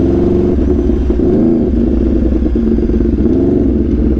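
Aprilia RSV4's V4 engine through an SC-Project CRT exhaust, running at riding revs while under way, its pitch rising and falling briefly twice. Wind noise rumbles underneath.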